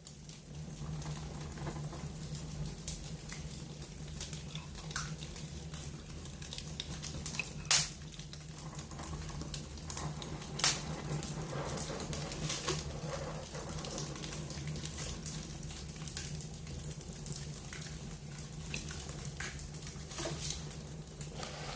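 Wood fire crackling in a fireplace, with scattered sharp pops, the loudest about 8 and 11 seconds in.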